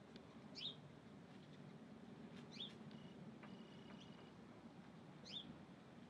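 Faint bird chirps: three short, high calls, each sliding quickly downward, about two to three seconds apart, over a steady low hum.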